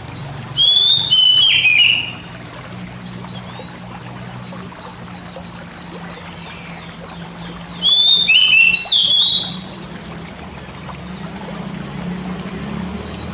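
Oriental magpie-robin (kacer) singing two short phrases of loud, clear whistled notes that slide downward, the first about half a second in and the second about eight seconds in. A steady low hum runs underneath.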